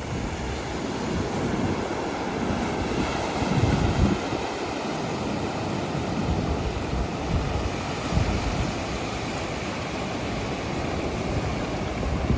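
Ocean surf: waves breaking and washing up on a sandy beach in a continuous rush, with wind buffeting the microphone in low rumbling gusts, strongest about four seconds in and again near eight seconds.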